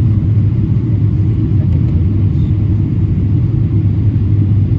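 Steady low rumble of a Boeing 777-300ER airliner, heard as continuous even noise with no change in pitch or level.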